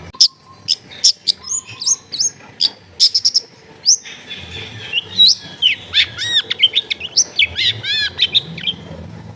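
Long-tailed shrike singing a fast, varied song of sharp chirps, clicks and quick whistled notes, with a run of repeated arching notes about six seconds in.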